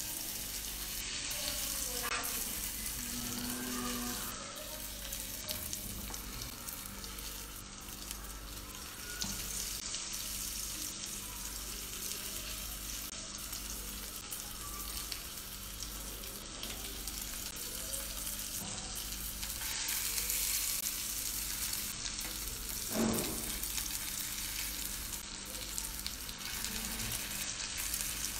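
Chicken roulade searing in butter and olive oil in a non-stick frying pan, a steady sizzle as the skin browns, with a few light clicks of metal tongs turning it in the pan.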